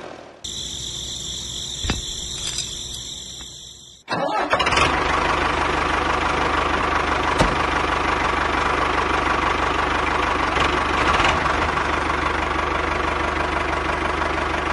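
An engine starts about four seconds in and then runs steadily. Before it starts there is a fainter sound with a steady high whine.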